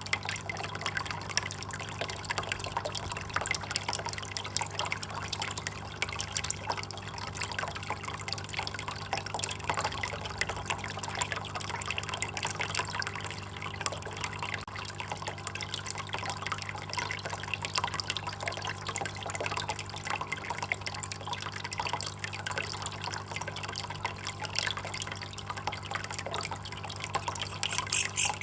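Water trickling and dripping in a continuous patter of small splashes, with a steady low hum underneath.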